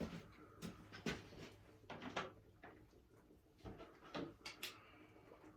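Faint scattered clinks and knocks of hand tools and sockets being handled, as in a search for a deep socket, about eight light strikes spread irregularly over a steady low hum.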